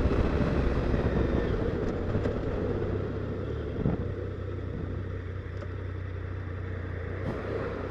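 Triumph Sprint GT's three-cylinder engine heard from the rider's seat, running down as the bike slows and then settling to a steady low idle.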